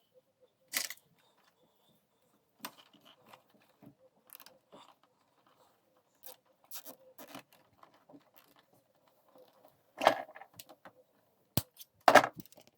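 Irregular small clicks, knocks and rattles of hard parts being handled, with louder knocks about a second in, around ten seconds in, a sharp click and another knock near the end. A faint steady hum sits underneath.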